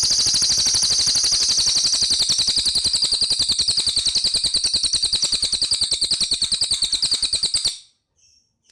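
Cililin singing a long, very fast, even trill of high repeated notes that stops abruptly near the end.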